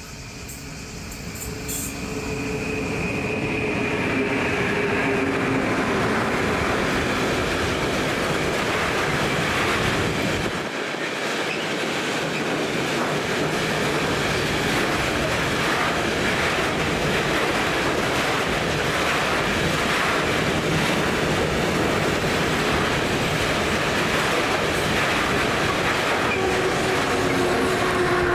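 Train approaching and running past close by: a whine from the locomotive sinks slightly in pitch as the sound builds over the first few seconds. Then comes a long, steady, loud rumble of wagons rolling past with wheel clatter, and a similar whine returns near the end.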